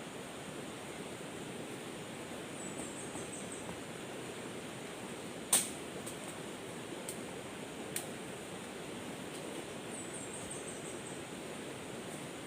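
Steady forest ambience hiss. Twice, a short falling run of high chirps from a small creature is heard. A sharp click a little past halfway is the loudest sound, followed later by two fainter clicks.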